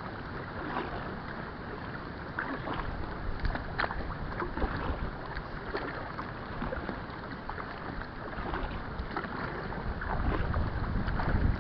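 Kayak paddling: a paddle dipping into the water with small irregular splashes and drips, and wind buffeting the microphone, strongest near the end.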